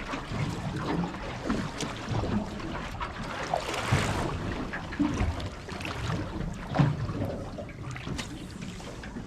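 Water lapping and splashing against a boat's hull, with wind on the microphone and scattered light knocks. A louder splash comes about four seconds in.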